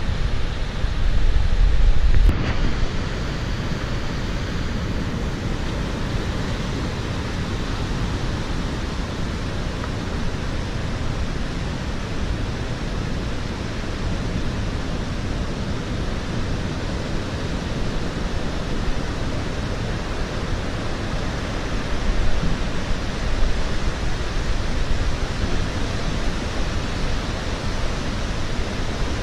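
Steady rush of rough surf left by the passing typhoon breaking on the shore. Wind buffets the microphone with low rumbling gusts in the first two seconds and again about three-quarters of the way through, and there is an abrupt break a little over two seconds in.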